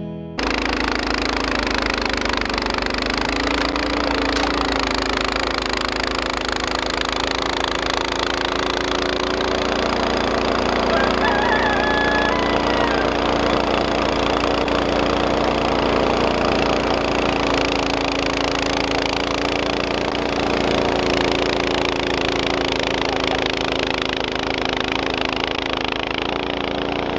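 An engine running steadily under even load, with a constant hum and little change in speed.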